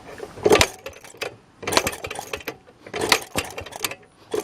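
Maytag single-cylinder two-stroke engine running a wringer washer, its firing coming in ragged clusters of knocks about every second and a half with quieter gaps between. It is running unevenly, which the owner puts down to an air leak at a gasket.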